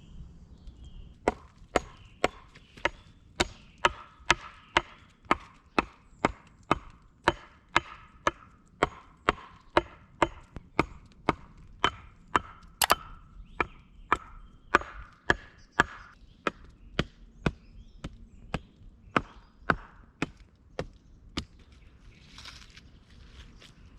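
Wood being chopped with a blade: a long run of sharp, even strokes, about two a second, which stops a few seconds before the end.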